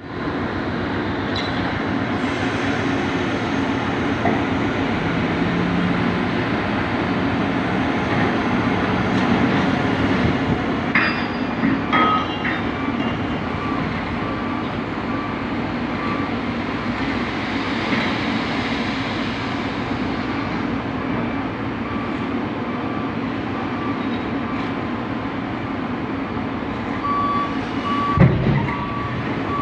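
Dump trucks and loading machinery running as a steady, dense mechanical din, with a few clanks partway through. Near the end a vehicle's reversing alarm beeps repeatedly, and there is one heavy thump just before the end.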